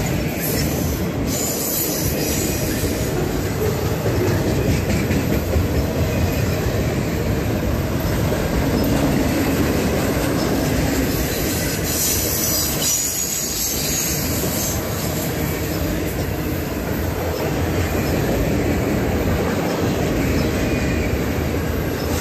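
CSX freight train of autorack cars rolling steadily past: a continuous rumble and clatter of steel wheels on the rails.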